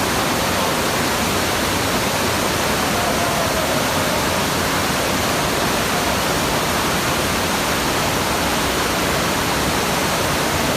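Loud, steady rushing noise, even and unbroken throughout.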